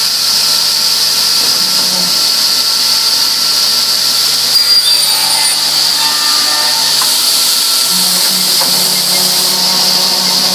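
Marinus V & G 400 endmatching machine running, a steady high-pitched whine over a low hum, with a brief knock about four and a half seconds in.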